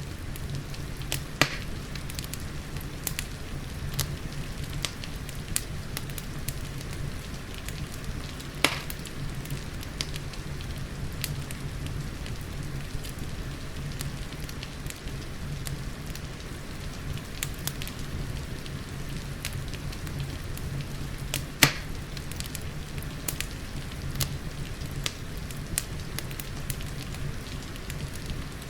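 Wood fire in a fireplace crackling, with scattered sharp pops, three of them louder, over a steady low rumble and the hiss of rain.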